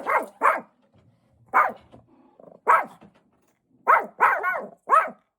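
Pet dog giving alert barks: about eight short, sharp barks, each falling in pitch, coming in bunches with brief pauses between.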